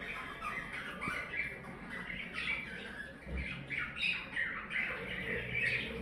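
Budgerigars chattering: a flock of many short, scratchy calls with no pause.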